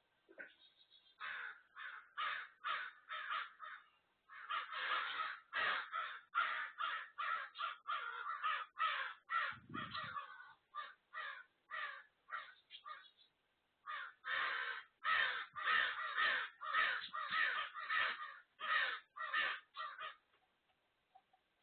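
Birds calling in quick repeated series, about two to three calls a second, in three runs with short breaks about four and fourteen seconds in.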